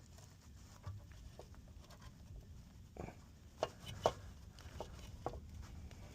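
Faint scattered clicks and taps of a starter mounting bolt being worked into its thread by hand, about seven light knocks spread over a few seconds.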